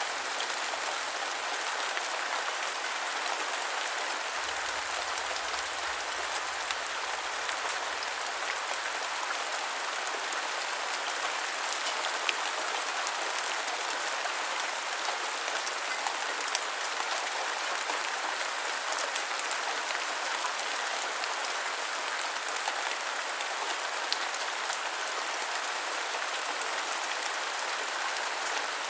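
Steady rain falling on a surface, an even hiss with scattered drop ticks and a few slightly louder drops.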